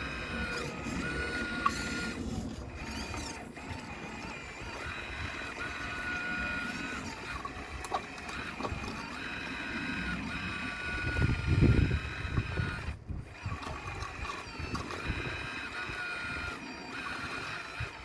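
Radio-controlled model excavator's electric motors whining, the pitch stepping up and down and cutting in and out as the arm and bucket move. About two-thirds of the way through there is a louder low rumble.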